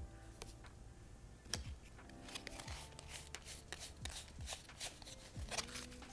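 Game cards and small components being handled and shuffled in short rustles and clicks, over soft background music.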